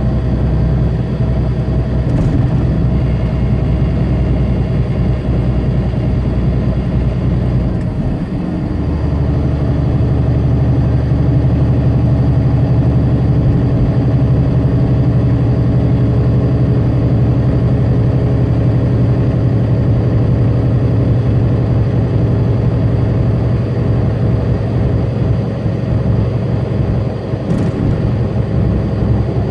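Semi truck's diesel engine droning steadily, heard from inside the cab. About eight seconds in the engine note dips briefly and settles at a different pitch.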